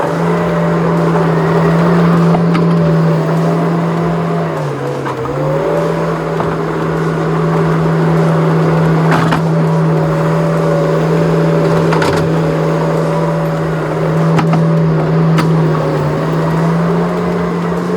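Skid steer engine running steadily at working speed, its pitch sagging briefly about five seconds in as it takes load, then recovering. A few sharp knocks come through over it in the second half.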